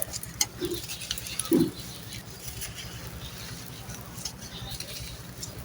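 Dry sand-cement crumbling and crunching: a scatter of small gritty crackles, with one louder crunch about one and a half seconds in.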